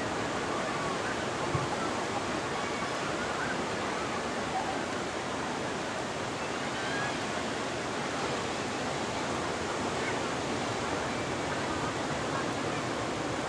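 Ocean surf: a steady wash of breaking waves, with no single crash standing out.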